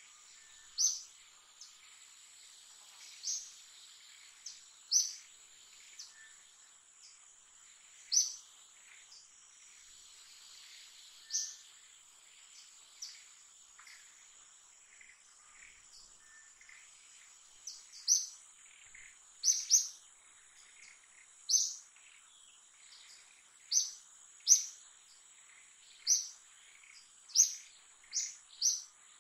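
Short, high bird chirps repeated every second or two, coming faster in the second half, over a steady high-pitched insect drone.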